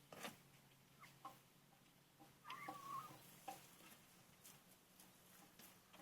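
Hens clucking softly, with one short wavering call about two and a half seconds in, and scattered light taps and clicks.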